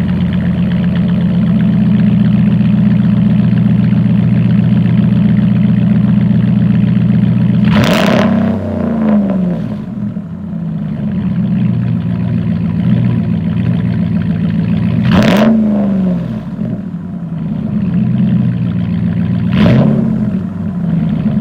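2017 Ram 1500's 5.7 Hemi V8 idling loudly through a true dual exhaust with no mufflers or resonators, with a deep, steady burble. It is revved in three quick throttle blips, each rising sharply and dropping back to idle.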